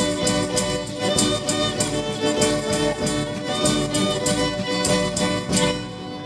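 Church band music led by a violin over a steady percussive beat, the song dying away near the end.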